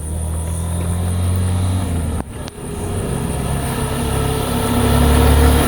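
Motorcycle engine running while riding, a steady low hum with rushing noise over it. It drops out briefly about two seconds in, then builds up again and gets louder toward the end.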